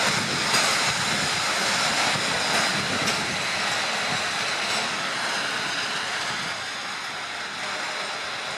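Freight train's open wagons loaded with coal rolling past on the rails: a steady rolling rumble and hiss with a few faint wheel clicks, slowly fading.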